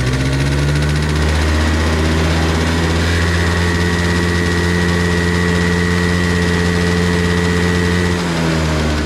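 Vintage Yamaha Active 35R engine running with no abnormal noise, held at a raised speed for several seconds with a faint high whine over it. It settles back down to idle near the end.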